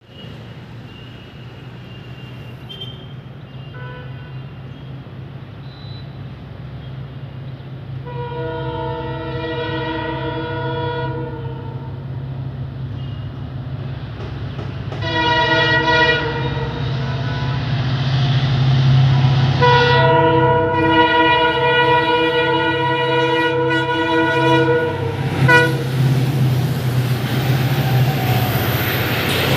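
Indian Railways express train approaching and passing close by: a low engine rumble grows steadily louder as the locomotive sounds its multi-note horn in three long blasts, the last held for several seconds. Near the end the coaches run past with a rushing wheel noise.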